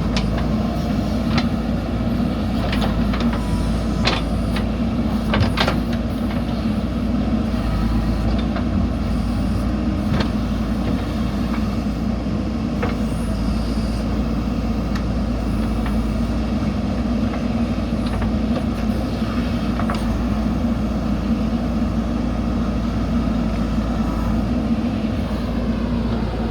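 Diesel engine of a JCB earthmover running steadily, with a few sharp knocks now and then.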